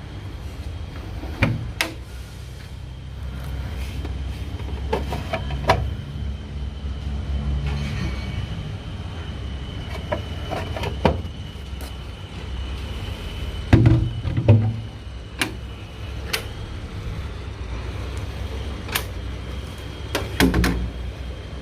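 Lorry engine running steadily at a low rumble, with a dozen or so sharp knocks and clunks scattered through it, the loudest cluster about 14 seconds in and another just before the end.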